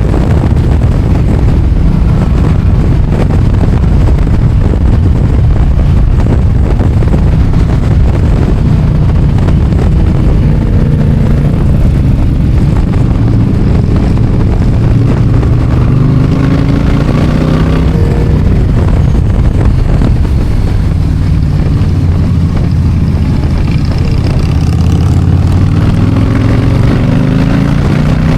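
Motorcycle engine running while riding, its pitch rising and falling several times with throttle and gear changes over steady road and wind noise.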